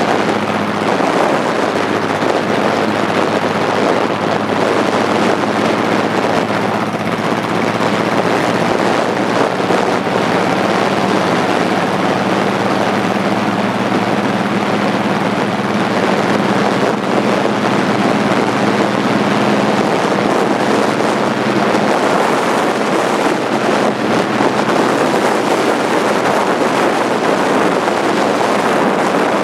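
Motorcycle engine running steadily at cruising speed, with heavy wind rushing over the microphone.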